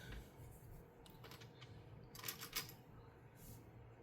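Faint clicks and rustles of small plastic LEGO pieces being handled and pressed into place, a few scattered taps with the clearest cluster a little past two seconds in.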